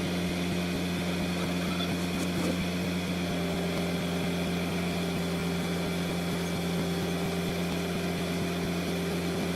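Heavy-equipment diesel engine running steadily at a constant speed, a continuous even drone.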